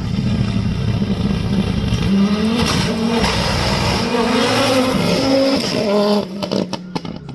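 Rally car engine revving hard, its pitch climbing in steps through several gear changes as it goes by on a gravel stage. The sound drops away about six seconds in, with a few sharp cracks near the end.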